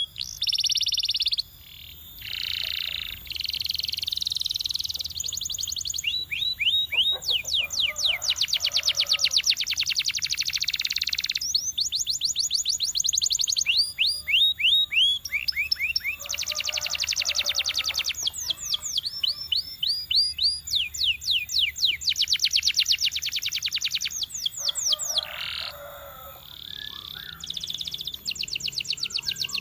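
Canary singing a long, varied song of fast trills of rapidly repeated high notes and sweeping notes, switching to a new trill every second or two with short pauses between phrases.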